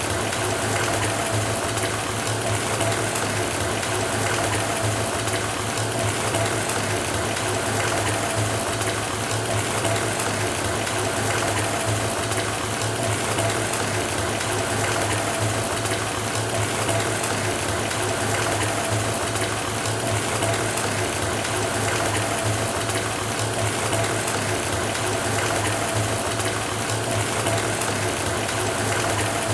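Water running steadily from a faucet into a filling bathtub, a constant rushing splash with a low hum beneath it.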